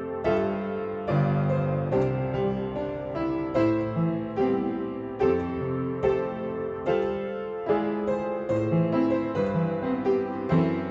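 Background music: piano playing a gentle melody over chords, with a note or chord struck about every half second.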